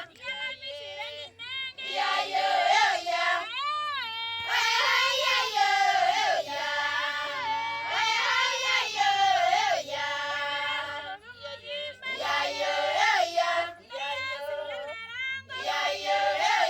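Background music with a high voice singing drawn-out, wavering notes in short phrases.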